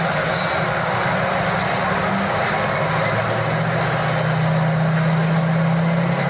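Work-stock pickup truck engine at full throttle under heavy load, pulling the weight-transfer sled down the track, running at steady high revs.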